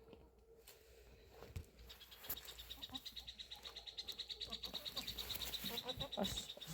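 A small animal's high-pitched, rapidly pulsing trill that starts about two seconds in and goes on steadily.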